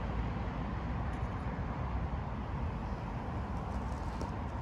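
Low, steady rumble of a distant train approaching along the line, mixed with wind buffeting the microphone.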